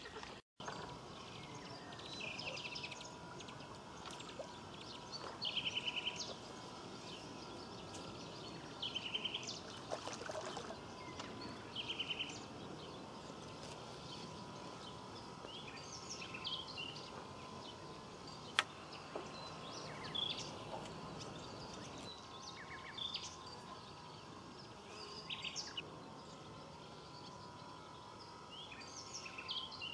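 Birds calling in short, high trills every second or two over faint outdoor background noise, with one sharp click about two-thirds of the way through.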